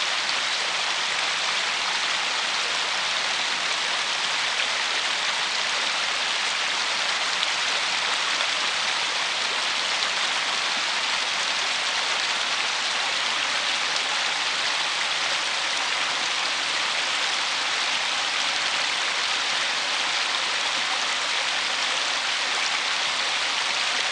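River water rushing steadily over a shallow, stony riffle: an even, unbroken splashing hiss.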